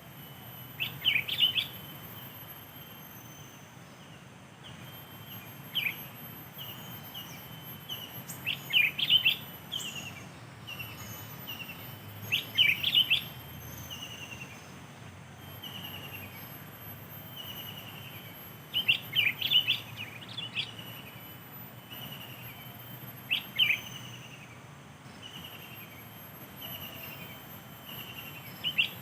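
Sooty-headed bulbuls (kutilang) calling in short bursts of chirping notes every few seconds, with fainter notes in between. Behind them runs a steady, very high-pitched insect drone.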